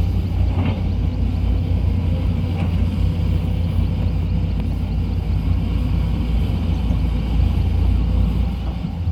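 Sany SY200C excavator's Mitsubishi 4M50 four-cylinder diesel engine running steadily with a low rumble.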